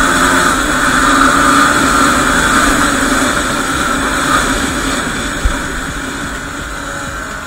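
Yamaha WR250R's single-cylinder four-stroke engine running under way, heard from the bike with wind noise, steady and slowly getting quieter, with a brief thump about five and a half seconds in.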